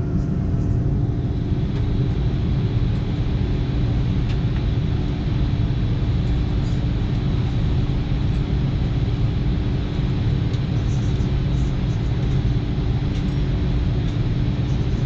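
Steady cabin noise inside an Airbus A330-200 on the ground after landing: an even low rumble with a steady hum.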